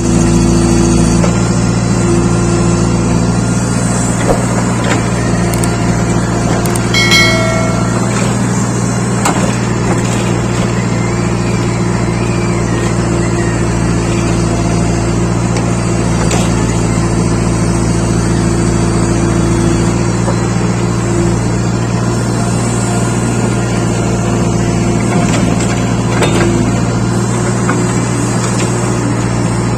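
Steady vehicle-engine running drone at an even pitch, with a brief horn-like tone about seven seconds in.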